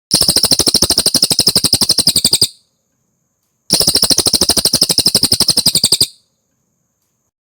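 Cililin songbird singing a rapid, even, high trill of about fifteen notes a second, in two phrases of about two and a half seconds each with a pause between.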